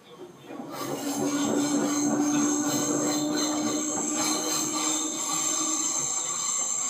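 Seibu 2000 series electric train running, heard from on board: the running noise swells about half a second in and stays loud, with a high wheel squeal over it.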